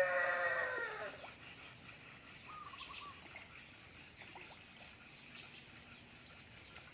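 A rooster's crow ends with a long, slowly falling note that fades out about a second in. After it comes quiet farmyard background: a faint, steady high hiss and a few faint bird chirps.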